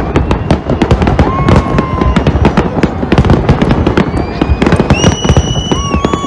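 Fireworks display: a dense, continuous run of cracks and pops. Several steady whistles sound over it, one at about a second and a half and overlapping ones near the end.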